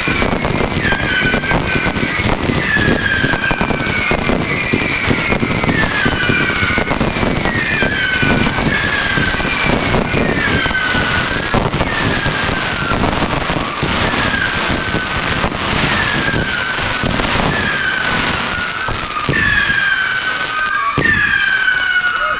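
Fireworks display: a barrage of whistling fireworks, a falling whistle about once a second, over continuous crackling and bangs. The whistles grow louder near the end.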